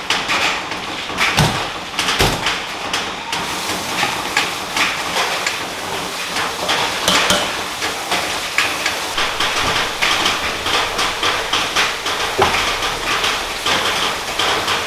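Rapid, irregular knocking and clicking, a few sharp strikes a second, over a steady noisy background.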